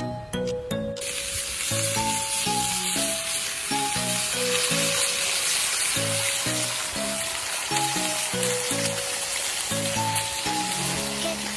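Eggs, diced potatoes, bacon and sausages sizzling on a large round griddle. The sizzle starts about a second in and holds steady, under background music with a simple melody of short notes.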